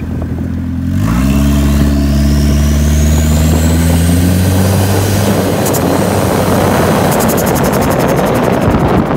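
A turbocharged Honda four-cylinder engine comes up to speed about a second in and then runs steadily, with a thin high whine climbing in pitch over the next few seconds. In the second half the sound turns rougher and noisier.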